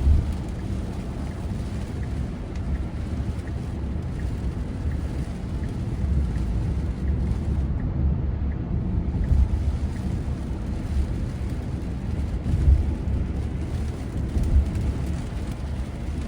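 Steady low rumble of tyre and road noise heard inside the cabin of a Tesla Model Y, an electric car, driving on a wet highway in pouring rain.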